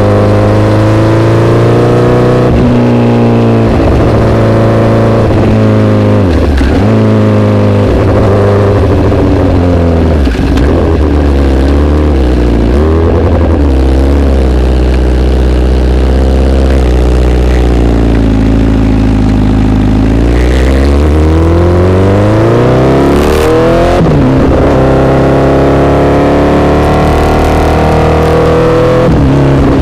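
Honda CBR1000RR's inline-four engine through an SC-Project aftermarket exhaust, loud and revving: the pitch climbs under throttle and drops suddenly several times, falls and settles low about halfway through, then climbs again.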